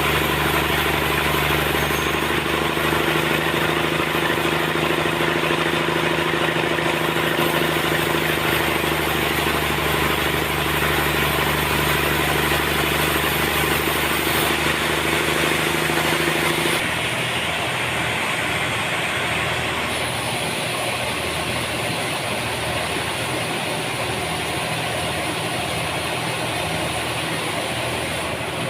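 Sawmill machinery running steadily with a loud, continuous hum. About two-thirds of the way through, its steady tones drop away and it runs on a little quieter.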